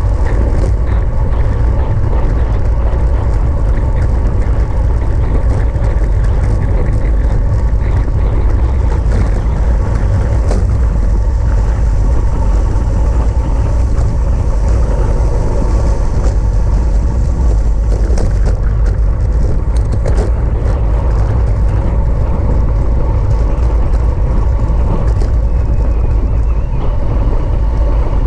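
Wind rushing over the microphone of a camera riding in a bicycle race at speed, a loud, steady low rumble with a faint steady hum on top.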